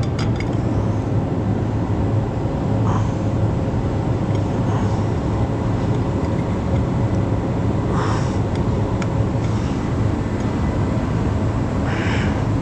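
Steady low drone of a shop heater running, with a few brief clinks and rustles of parts being handled.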